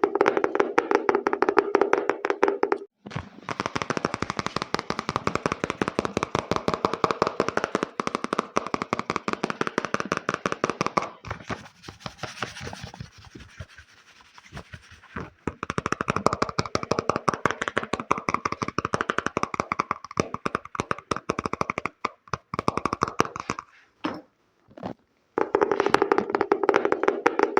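Fast ASMR tapping close to the microphone: a dense run of many taps a second. Around the middle it gives way to a softer, hissier scratching stretch, and it stops briefly a couple of times near the end.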